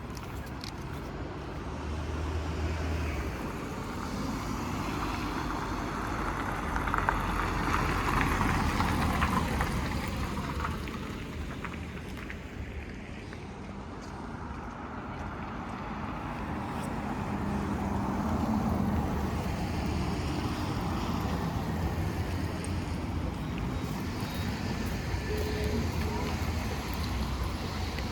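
Road traffic noise: a steady rumble and hiss of vehicles and tyres that swells twice, about a quarter of the way in and again past the middle, as vehicles pass.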